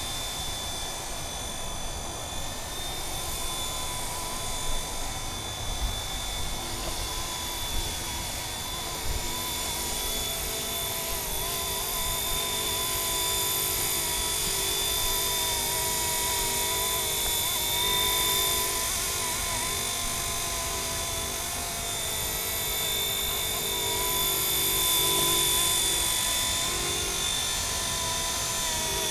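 Radio-controlled MD 500 scale model helicopter in flight: a steady, high-pitched motor and rotor whine whose pitch wavers slightly.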